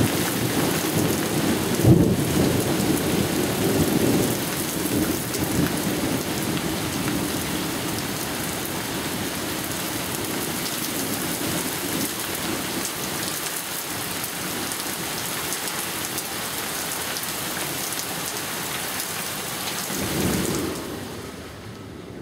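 Heavy thunderstorm rain pouring down, with low thunder rumbling through the first few seconds and a sharp clap about two seconds in. The downpour drops off near the end.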